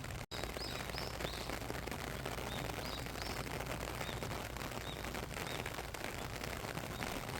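Steady rain falling, with many small drop ticks through it, and a small bird giving short high chirps several times. The sound cuts out for a split second just after the start.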